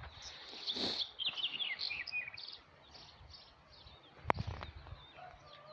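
Small birds chirping in short, repeated high calls, with a brief rush of noise about a second in and a single sharp click about four seconds in.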